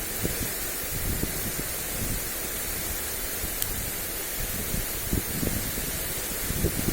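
Lawn sprinkler spraying water onto grass, a steady hiss, with wind gusting on the microphone as irregular low rumbles that grow stronger near the end.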